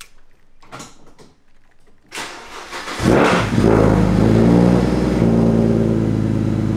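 2008 BMW 135i's single-turbo N54 straight-six, cold-started after sitting unused for months: a click or two, the starter cranking at about two seconds, and the engine catching about three seconds in. It flares up and then settles a little lower into a steady idle, running fine while still cold.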